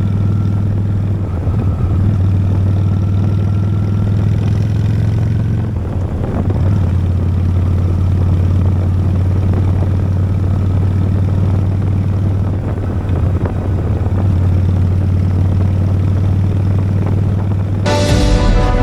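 Honda Steed motorcycle's V-twin engine running steadily while riding along, with road and wind noise. Music cuts in suddenly near the end.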